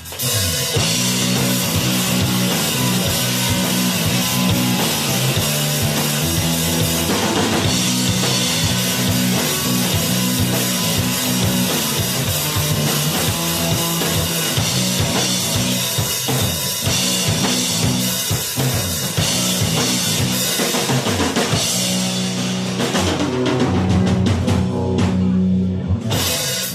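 Live rock band playing with a full drum kit, the song stopping suddenly near the end.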